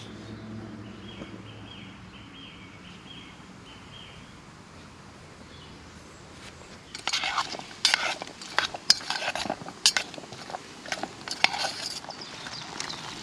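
Irregular sharp clinks and knocks, like metal camp cookware or utensils being handled, starting about seven seconds in. Before them, a faint repeated high-pitched note sounds several times.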